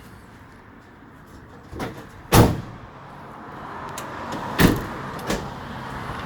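A few sharp knocks or clunks, the loudest about two and a half seconds in and another near the five-second mark, over the steady noise of a passing vehicle that grows louder through the second half.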